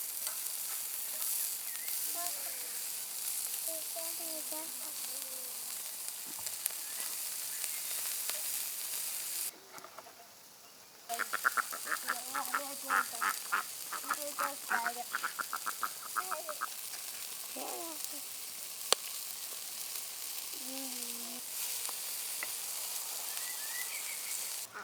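Food sizzling as it cooks, a steady hiss that drops out briefly a little before halfway. Over it, domestic ducks or geese call now and then, with a quick run of about a dozen short honks just after halfway.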